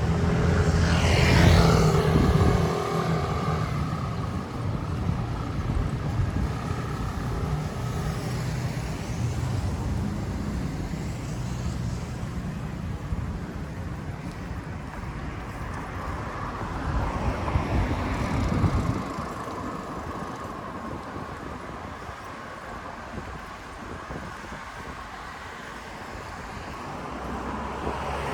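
Road traffic heard from a bicycle: a car passes close about a second in, its sound falling in pitch as it goes by. A second vehicle swells past about two-thirds of the way through, over a steady low rumble of wind and road noise.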